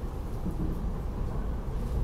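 Steady low rumble of a SEPTA regional rail train running along the track, heard from inside the passenger car.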